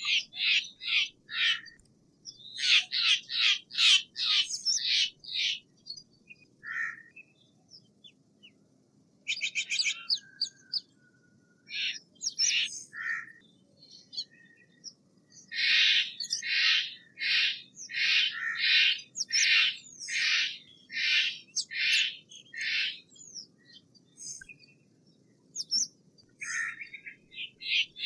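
Steller's jay giving runs of short repeated calls, about two a second, in several bouts with pauses between. The longest bout comes in the middle.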